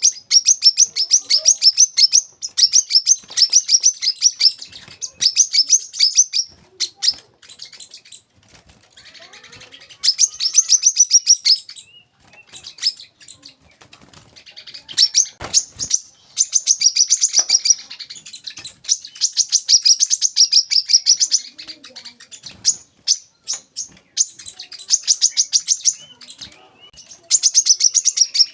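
Brown-throated sunbird (kolibri kelapa) singing in its 'wiceh' style: repeated phrases of very fast, high twittering notes, each a second or two long, with short pauses between them. A few sharp knocks come about halfway through.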